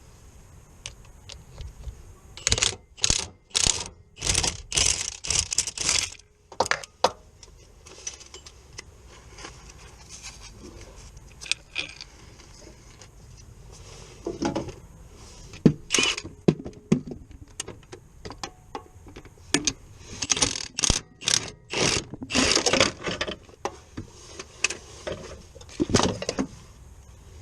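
Hand tools and metal parts clinking and rattling in short bursts, with scattered sharp clicks, in two busy spells about two seconds in and again about twenty seconds in.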